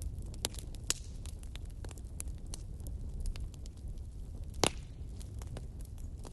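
Wood fire burning in a fireplace, a steady low rumble of flame with irregular sharp crackles and pops, one louder pop near the end.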